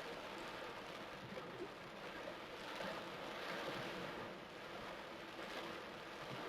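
Heavy torrential rain pouring down: a steady, even hiss.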